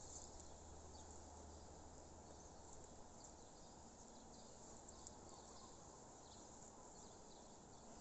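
Faint ambience with scattered short, high bird chirps over a low steady hum.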